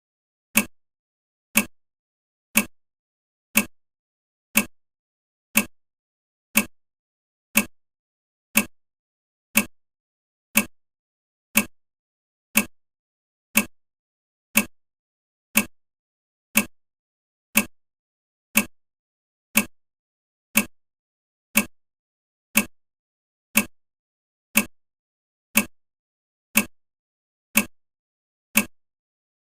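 Countdown timer's ticking sound effect: a short, sharp clock tick once every second, each one dying away fast.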